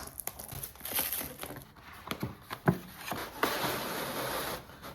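A cardboard box of fireworks shells being unboxed by hand: light knocks and clicks of handling, then a longer rustling scrape beginning about three and a half seconds in.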